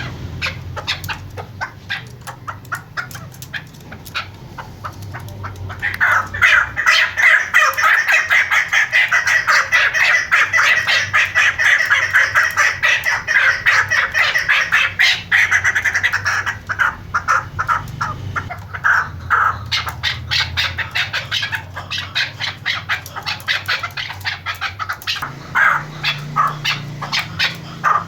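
Chukar partridge (chakor) calling: a rapid run of short repeated chuck notes that swells into a dense, loud chorus of calls about six seconds in, then thins back out to spaced notes after about sixteen seconds.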